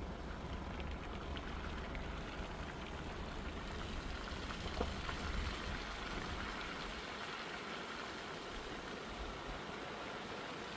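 Steady hiss of rain and wet-road noise from a vehicle driving in the rain, with a low rumble that fades about seven seconds in.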